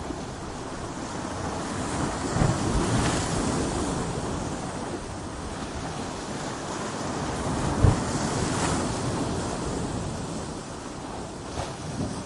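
Ocean waves breaking against coastal rocks: a continuous rush of surf that swells and ebbs, with heavier waves hitting about two seconds in and again about eight seconds in.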